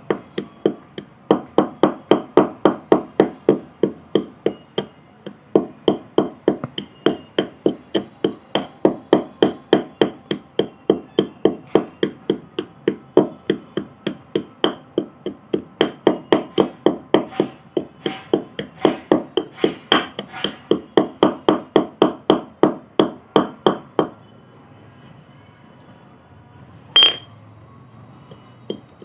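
Fired clay pots being struck and broken in quick succession, about three cracking impacts a second. Near the end the strikes stop for a few seconds, broken by one sharper hit with a brief ringing tone.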